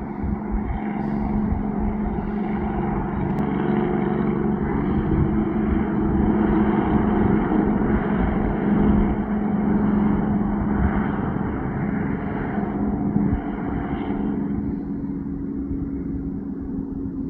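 A heavy truck's diesel engine drones steadily with a deep rumble. It grows louder toward the middle, then eases off as its pitch drops slightly.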